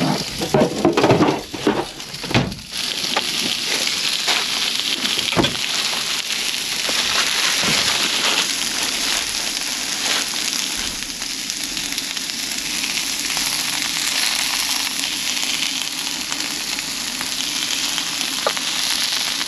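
Food sizzling as it fries in a pan, a steady hiss. There are a few short knocks and clatters in the first three seconds and one more about five seconds in.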